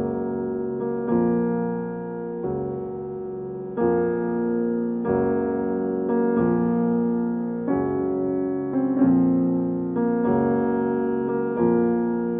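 Piano music playing slow sustained chords, a new chord struck about every second and a half.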